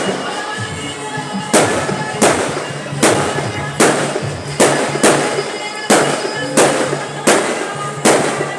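Fireworks bursting in a rapid series of about ten sharp bangs, roughly one every 0.7 seconds, each fading quickly, with music playing underneath.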